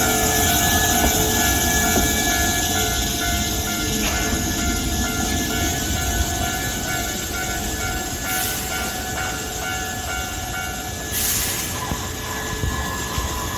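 Hankyu electric train close by: a steady low rumble with several steady whining tones over it. Two short hisses come about eight and eleven seconds in.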